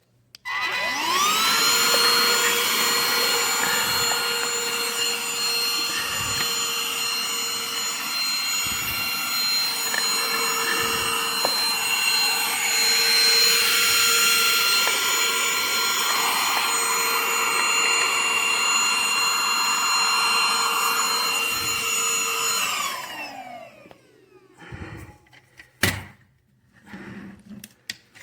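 Vacuum cleaner switched on, its motor spinning up with a rising whine, then running steadily with a high whine over rushing air. Near the end it is switched off and the whine falls as the motor winds down.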